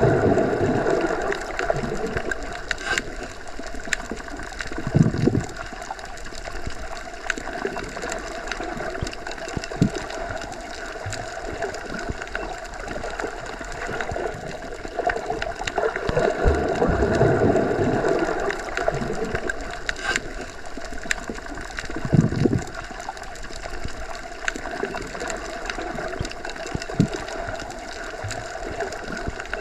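Underwater ambience as heard while submerged: a steady, muffled rush of water with slow gurgling swells and a couple of short low thuds.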